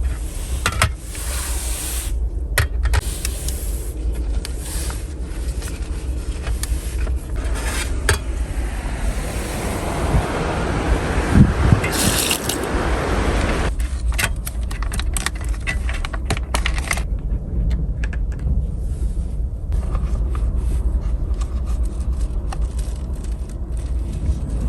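Scattered clicks, scrapes and light clatter of objects being handled, over a steady low rumble, with a hiss that swells in the middle and stops suddenly a few seconds later.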